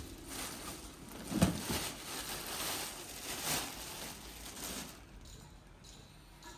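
Workshop handling noises while engine parts are fitted: rustling and light clatter, with one sharper knock about a second and a half in, dying down near the end.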